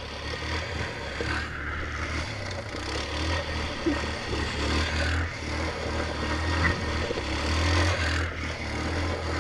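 Motorcycle engine running, a steady low drone with a few brief dips, under a rushing haze of noise; it grows louder toward the end.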